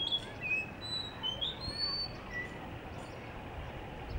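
Blue whistling thrush singing: a run of clear whistled notes, several sliding up or down in pitch and one held longer, over the first two seconds or so, then only a faint note.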